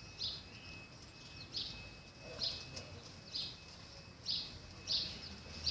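A bird calling over and over, short high notes coming a little faster than once a second. A thin, steady high tone runs underneath.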